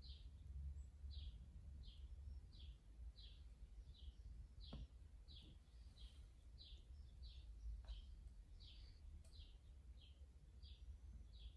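A small bird chirping over and over, short high chirps at about two a second, faint over a low steady hum.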